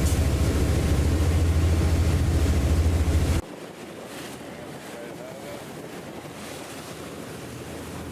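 A boat's engine running with a steady low drone, which cuts off abruptly about three and a half seconds in, leaving wind buffeting the microphone over the sea.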